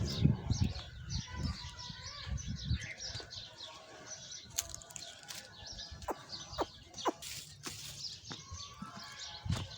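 Many small birds chirping in a dense, continuous chatter, with low thumps in the first few seconds and a few sharp knocks later on.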